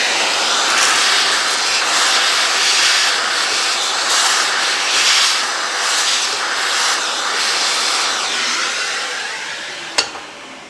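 Vacuum cleaner running with its hose sucking leftover coffee grounds out of an espresso grinder's burr chamber, the sound swelling and dipping as the nozzle moves. Near the end it dies away, with a sharp click, as the motor winds down.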